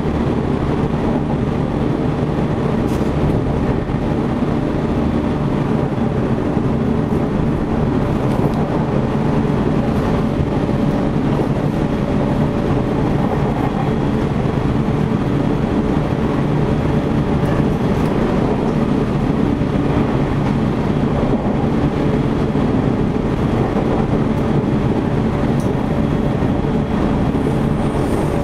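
Running noise of a JR Central 313 series 8000-subseries electric multiple unit, motor car KuMoHa 313-8502, heard inside the compartment at the car's end: a steady rumble of wheels on rail with a constant hum at cruising speed.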